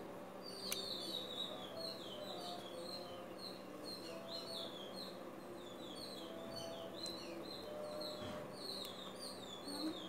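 Small birds chirping: a steady run of short, high, downward chirps, a few a second.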